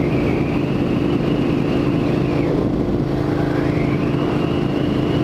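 Motorcycle engine running under way with wind noise, its pitch dipping briefly about halfway through and climbing back.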